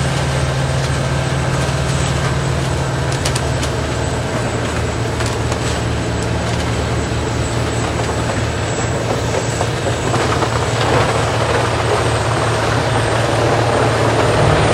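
Morbark tracked horizontal grinder running steadily while it grinds wood debris: a constant low diesel drone under a rough grinding noise, growing somewhat louder about ten seconds in.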